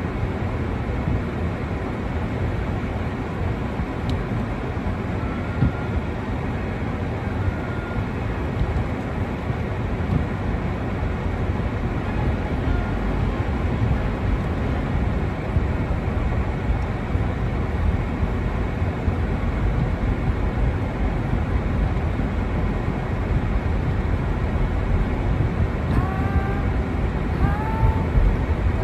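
Steady low rumble of outdoor noise with small uneven swells, and a few short, high chirps near the end.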